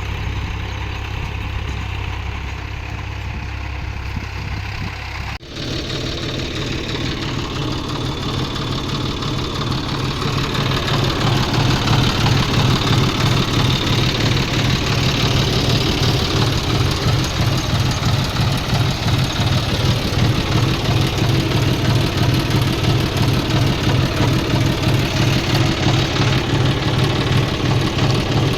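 Tractor diesel engine running. About five seconds in the sound breaks off and picks up again with a pulsing engine note that grows louder over several seconds, then holds steady.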